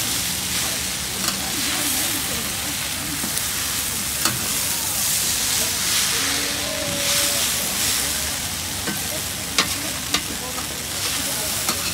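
Yakisoba noodles sizzling on a hot flat griddle as they are stir-fried, with a steady frying hiss. A few sharp clacks of the spatula on the griddle come in the second half.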